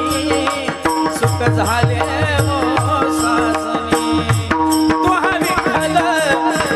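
Marathi abhang being sung with a pakhawaj (mrudang) accompaniment. The male voice sings long, ornamented runs, over repeated deep drum strokes that drop in pitch, sharp percussion strikes and a steady drone note.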